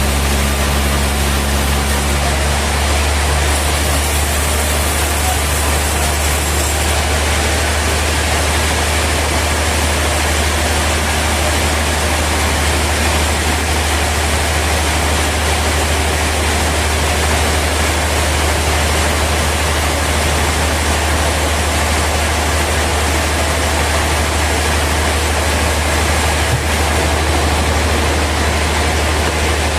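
Sawmill machinery running steadily: a deep constant hum under an even, noisy rush that does not change.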